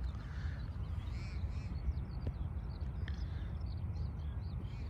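Birds calling: a few longer arched calls, with more of them about a second in, and many short chirps, over a steady low rumble.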